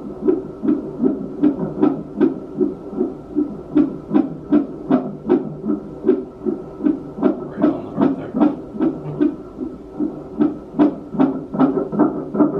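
Fetal heartbeat picked up by a handheld Doppler monitor: an even, rapid pulsing about two and a half beats a second over a steady hum. It is a strong heartbeat.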